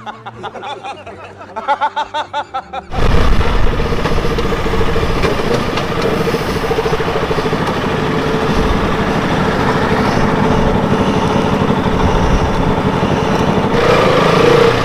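Loud, steady road noise from a motorcycle at speed: wind rushing over the rider's helmet microphone and the KTM RC200's single-cylinder engine running with a steady tone. It begins about three seconds in, after a short, quieter pulsing sound.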